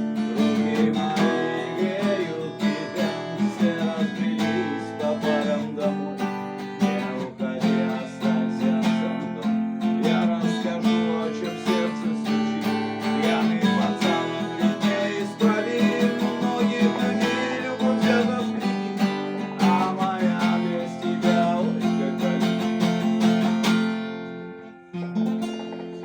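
Acoustic guitar strummed in a steady rhythm, an instrumental stretch without singing, fading out near the end.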